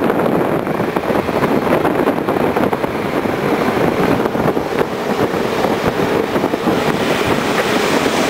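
Steady, loud rushing noise of a vehicle on the move in a storm, with fine crackling all through.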